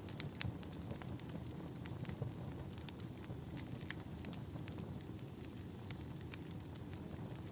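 Fireplace ambience: a wood fire crackling, with irregular sharp pops over a low steady rumble.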